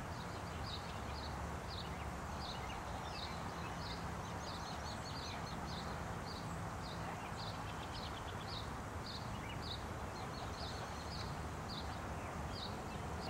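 A bird chirping over and over, short high calls about two to three a second, over a steady outdoor background hiss.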